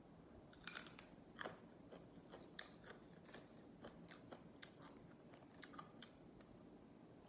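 Close-up crunching and chewing of raw vegetables (lalapan): a string of crisp bites and crunches, the loudest in the first three seconds.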